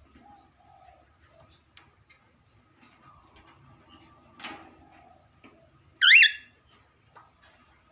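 A budgerigar gives one short, loud chirp about six seconds in, among scattered light clicks and ticks of beaks working on metal wire. There is a brief rustle a little earlier.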